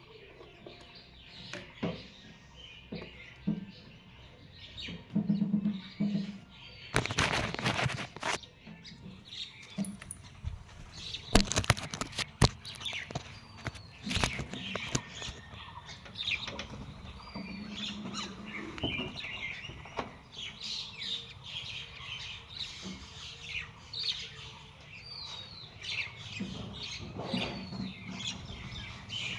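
A group of small birds chirping repeatedly with short, quick calls, as they gather at food put out for them. In the first half there are a few short, loud noises.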